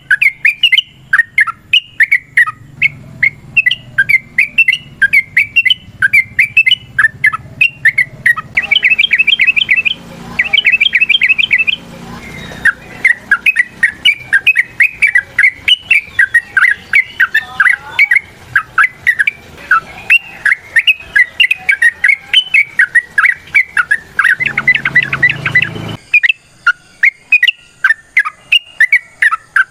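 Yellow-vented bulbul (trucuk) singing a long, unbroken run of quick chattering notes. Faster trilling bursts come about 9 to 12 seconds in and again around 25 seconds. A low hum underneath cuts off about 26 seconds in.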